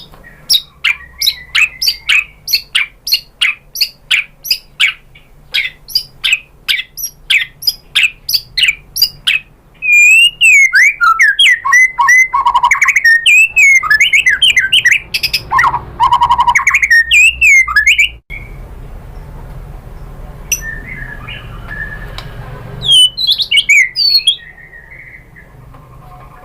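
White-rumped shama singing: a run of sharp repeated notes, about two a second, for roughly the first ten seconds, then loud, rich warbling phrases. After a sudden break about eighteen seconds in, the song is softer, with a brief loud burst of notes a few seconds before the end.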